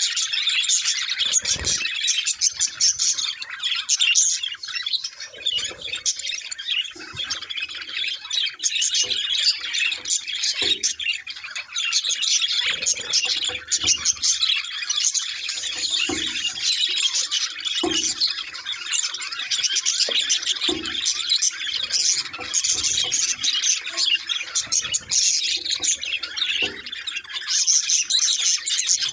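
Budgerigars chattering and chirping without pause, a dense warble of short chirps and squawks, with a few short low knocks scattered through.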